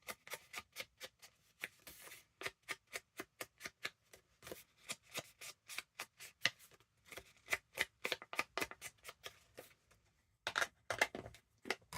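Rapid, irregular dabbing taps as ink is worked onto the edges of a paper pocket, about four taps a second, pausing briefly near the end.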